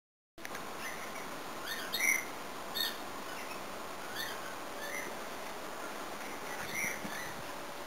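Small birds chirping in the background: short, high chirps, one every second or so at irregular gaps, over a faint steady hiss.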